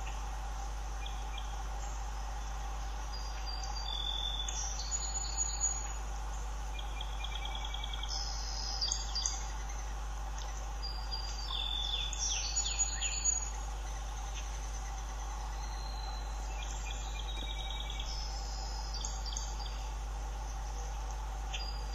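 Birds chirping off and on in several spells of quick, high calls, over a steady low hum.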